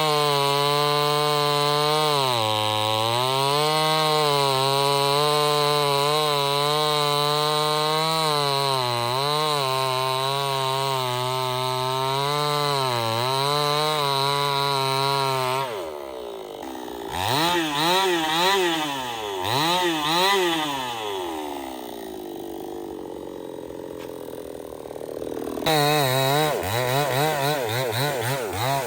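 Stihl 070 two-stroke chainsaw held at high throttle for about fifteen seconds, its pitch sagging now and then as it works through the cut. It then backs off and gives a few quick revs, runs quieter for a few seconds, and near the end revs up again in fast bursts.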